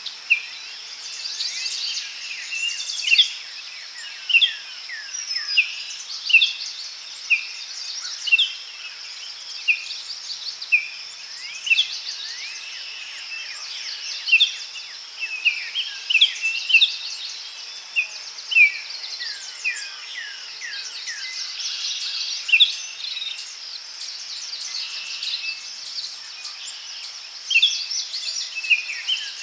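Daytime forest ambience: many songbirds calling in quick, overlapping short chirps and whistled notes, over a steady high-pitched insect drone.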